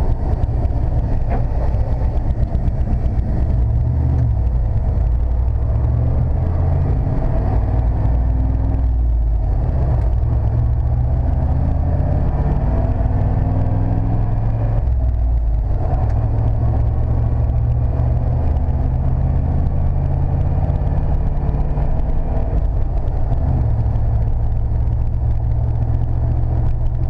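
1995 Chevrolet C/K 1500 pickup's engine and drivetrain running steadily while driven, pulling through the gears of its 5-speed manual. The sound drops out briefly twice, about a third of the way in and about halfway, as gears are shifted, and the gearbox shows no jumping or hesitation.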